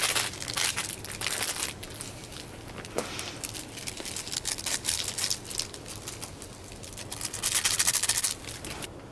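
Irregular bursts of rustling and crinkling, with a dense rapid run of it about three quarters of the way in that stops shortly before the end.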